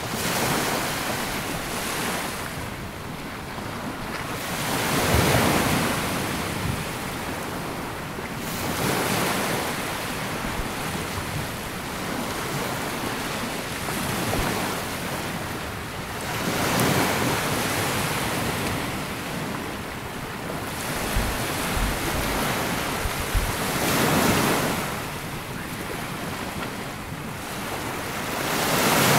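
Sea waves breaking and washing up a sandy beach, the surf swelling and ebbing every three to five seconds.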